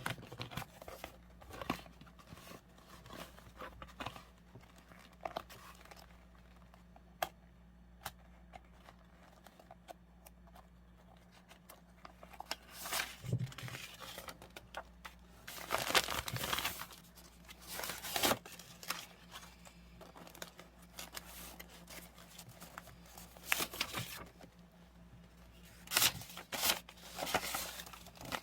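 Paper being handled, crinkled and torn, in several rustling bursts with small taps and clicks between them.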